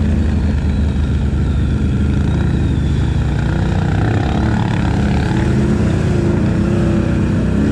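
ATV engine running steadily under way, its pitch rising and falling gently with the throttle.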